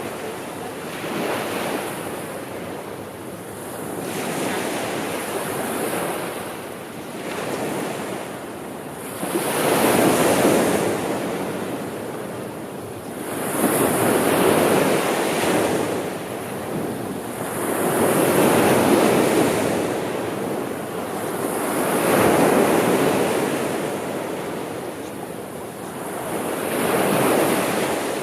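Sea waves washing onto the shore, each wave swelling and fading every few seconds.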